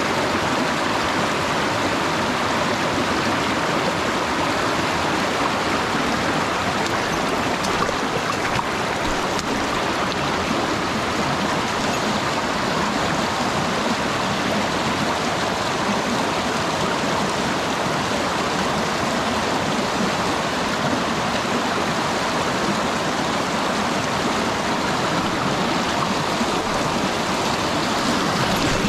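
Mountain stream water running steadily, an even, unbroken rush.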